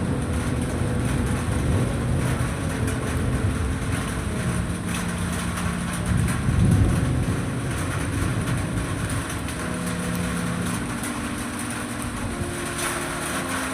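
Steady low engine rumble with several held tones that shift in pitch now and then, swelling louder about six and a half seconds in.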